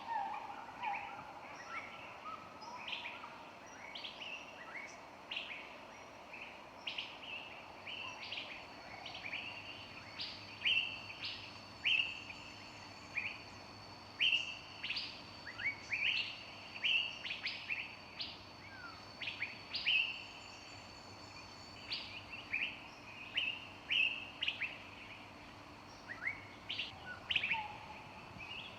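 Tropical birds chirping: many short, sharp calls tumbling over one another, several a second, with a thin steady high whistle behind them through the middle.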